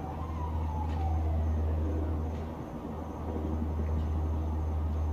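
Distant siren wailing, its pitch falling over the first second or so, above a steady low rumble of town traffic.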